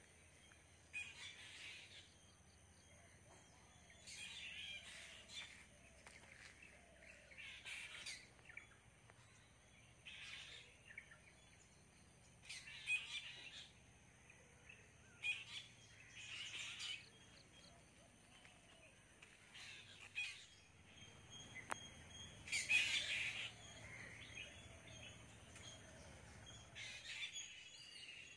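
Small birds calling from the trees, with short chirps every second or two, the loudest cluster about two-thirds of the way through.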